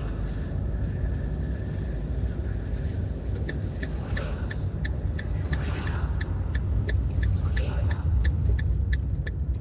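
Campervan engine and road noise rumbling steadily inside the cab. About a third of the way in, the turn-signal indicator starts ticking at about three clicks a second.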